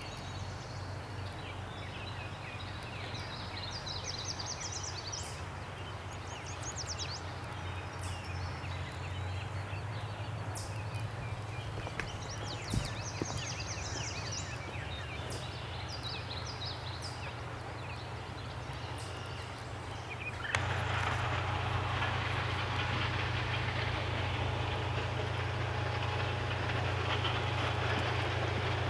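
Birds chirping and trilling over a steady low rumble. About two-thirds through, the birdsong gives way abruptly to a louder, even rushing noise.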